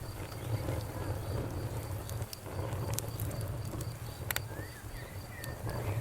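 Wood fire crackling, with scattered sharp pops over a low steady rumble of the flames. An insect chirps in a fast, even pulse.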